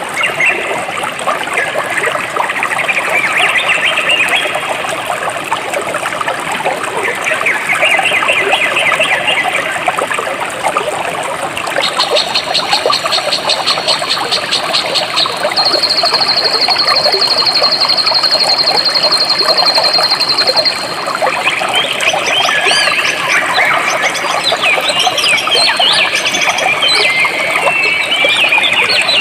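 Jungle stream flowing steadily, with birds chirping. A high, rapid trill comes in about twelve seconds in and holds until about twenty-one seconds, then a run of quick bird chirps follows toward the end.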